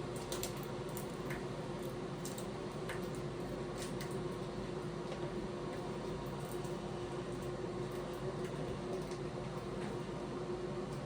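A 90 CFM bathroom exhaust fan running with a steady hum, with scattered light clicks and crinkles on top of it.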